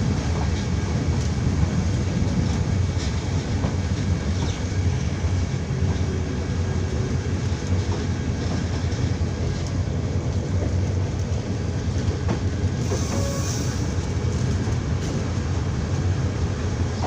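Passenger train running along the track: a steady rumble of wheels on rails with scattered light clicks.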